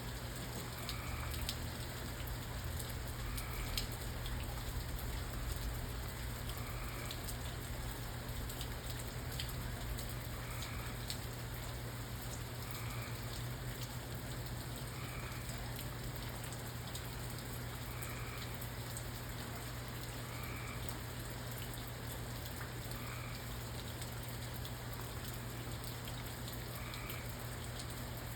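Steady rain falling, with scattered sharp drop ticks. A short call repeats about every two seconds throughout.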